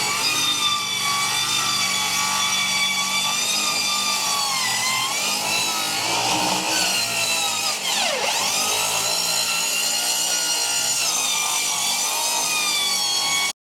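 Electric power saw running and cutting wood, a steady high motor whine. Its pitch dips twice as the motor bogs under load, sharply the second time, about eight seconds in. It stops abruptly near the end.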